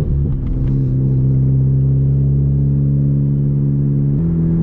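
2010 Hyundai Genesis Coupe's turbocharged four-cylinder engine running steadily under light driving, heard from inside the cabin; its note steps up in pitch about four seconds in.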